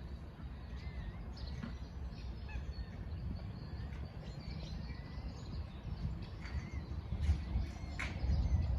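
Birds chirping and calling in short bursts over a steady low rumble, with a few louder, sharper calls near the end.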